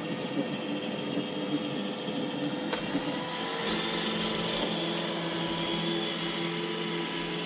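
iRobot Roomba E6 robot vacuum running on carpet: a steady motor hum and whine from its suction fan and brushes, called quiet on carpet. About three and a half seconds in, a louder hiss joins the hum and holds.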